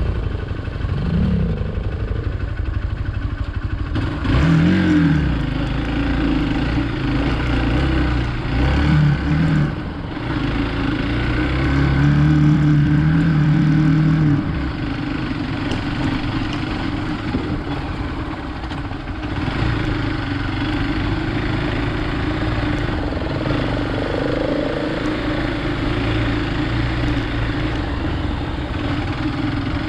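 Hero Xpulse 200 motorcycle's single-cylinder engine running while riding, revved up several times in the first half, then pulling steadily.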